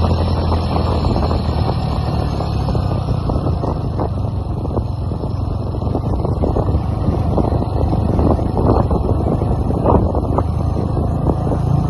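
Motorcycle engine running while riding, under a steady rush of wind noise.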